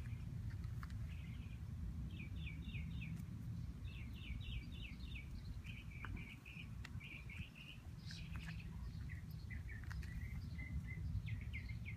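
Small songbirds chirping in quick runs of short, repeated notes throughout, over a steady low rumble.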